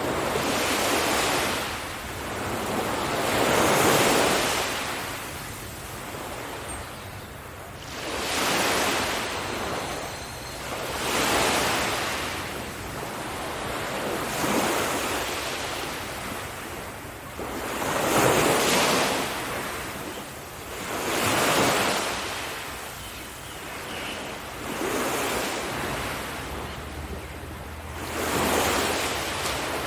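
Sea waves breaking and washing up a beach, one surge of surf every three to four seconds, each swelling and falling away.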